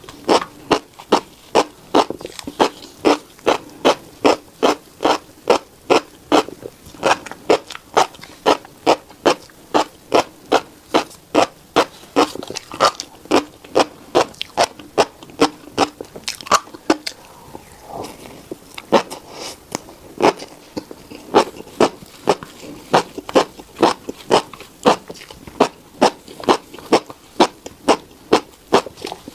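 Close-up chewing of a mouthful of tiny black seeds: rhythmic crunching strokes at about two to three a second, with a brief pause a little past the middle.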